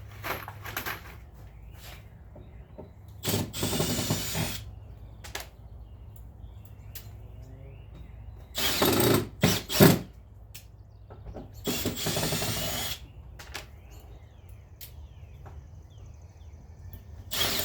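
Power drill driving door hinge screws tight, in several short runs of about a second each.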